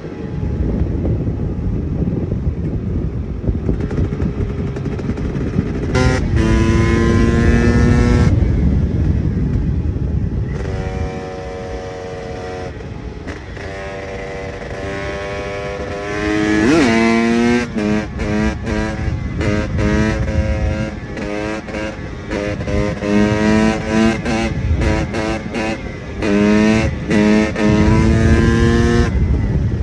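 KTM EXC 300 two-stroke single-cylinder enduro motorcycle engine being ridden, revving up repeatedly with its pitch rising in each gear. From about halfway on, the throttle comes on and off in quick short surges with brief drops between.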